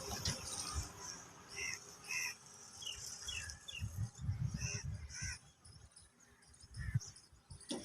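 Small birds chirping in short, repeated high calls, with irregular low rumbles underneath.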